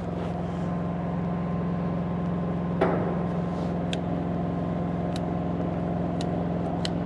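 Engine of a tow-behind welder generator running steadily at constant speed, with a short knock about three seconds in and a few faint ticks later.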